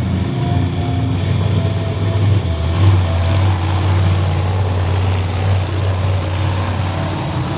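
A big monster truck engine idling steadily with a deep, even hum.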